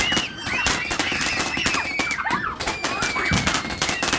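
Consumer fireworks going off in a rapid string of crackling pops, with high squeals rising and falling above them.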